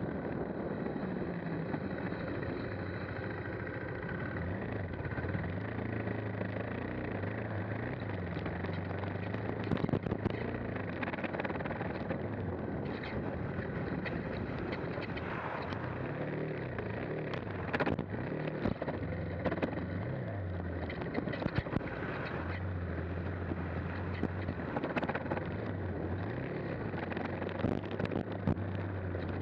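KTM 390 Adventure's single-cylinder engine running as the bike is ridden along a rutted green lane, the engine note rising and falling with the throttle. Occasional sharp knocks come through as the bike goes over the ruts.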